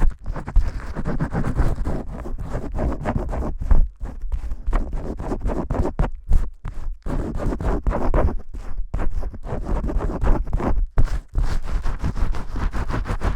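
Vigorous shampoo scrubbing: fingers scratching and rubbing hard through lathered hair, a dense, uneven scratching rustle broken by a few brief pauses.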